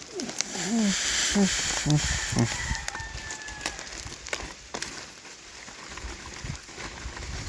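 Chickens clucking: a few short calls close together in the first two or three seconds, then only a faint steady hiss.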